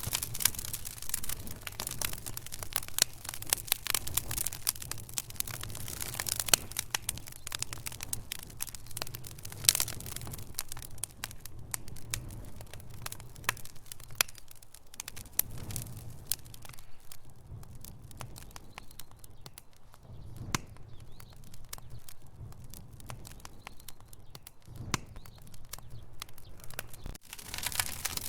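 Logs burning in a fireplace, crackling and popping over a low steady rumble. The crackles come thick and fast at first and thin out about halfway through.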